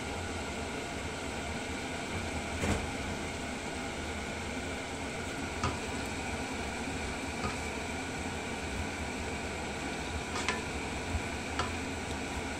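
Stir-fry of bok choy, mushrooms and shrimp sizzling in a pan under a steady hiss, with a spatula knocking against the pan a few times as the greens are turned over.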